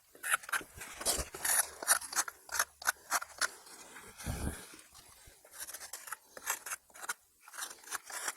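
Quick, irregular scraping and scratching strokes, more than a dozen in a few seconds, with one lower, duller rub about halfway through.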